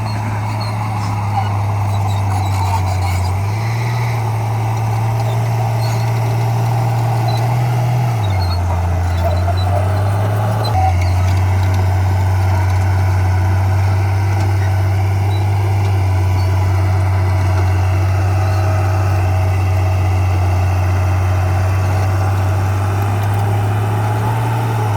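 Heavy earthmoving machinery's diesel engine running steadily under load, its engine speed stepping down and back up a few times.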